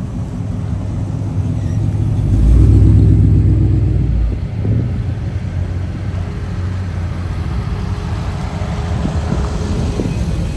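Car engine running with a low rumble, swelling much louder for about two seconds starting about two seconds in, then settling back to a steady rumble.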